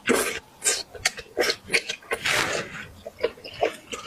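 Close-miked mukbang eating sounds: chewing and mouth smacking on braised eggplant, in short irregular clicks and bursts, with a longer noisy burst about two seconds in.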